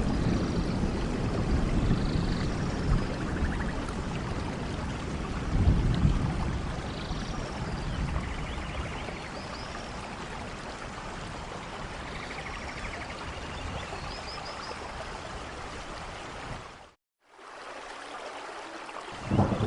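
Steady rain with low rumbles of thunder at the start and again about six seconds in, and faint high chirps over the rain. Near the end the sound cuts out completely for a moment, then the rain returns with thunder starting to roll.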